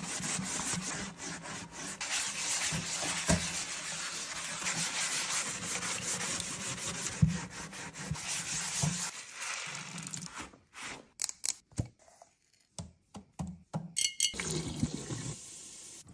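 Liquid pouring or water running steadily for about nine seconds, then stopping, followed by a few light clicks and taps of containers being handled.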